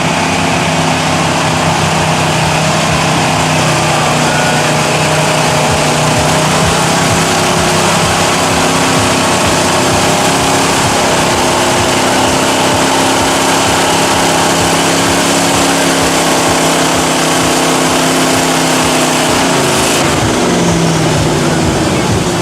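Mud-bog truck engine running loud and steady, its pitch holding level, then shifting down and back up near the end.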